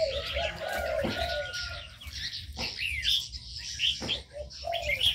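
Mixed aviary birds calling: doves cooing in low, wavering phrases at the start and again near the end, over many small birds chirping and twittering. A few short knocks stand out among the calls.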